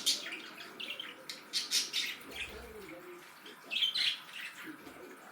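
Pet budgerigars chirping and chattering, a string of short high calls.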